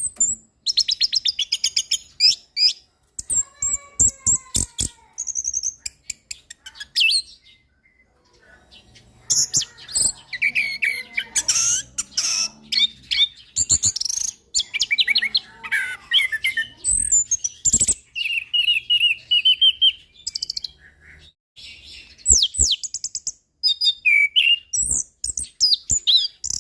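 Orange-headed thrush singing a long, varied song: rapid high whistled phrases, trills and chattering notes, broken by short pauses.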